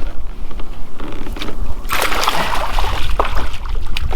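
Water splashing beside a kayak as a hooked smallmouth bass is brought to the landing net, with the loudest splashing about two seconds in, over a steady low rumble.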